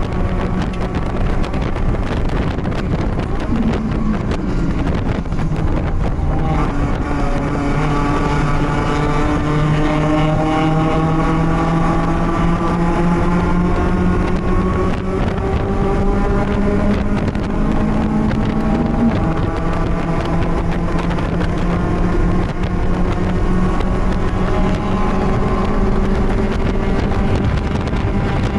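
BMW race car engine running hard, its pitch climbing slowly for several seconds, dropping briefly about two-thirds of the way in, then holding steady, with wind noise over it.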